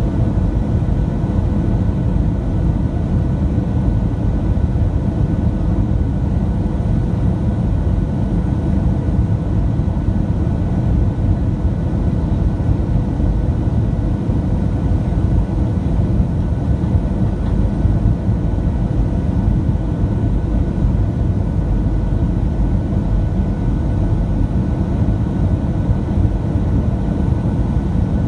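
Steady cabin noise of a Boeing 737-700 in flight: a deep, even roar from its CFM56-7B engines and the airflow, with faint steady whine tones above it.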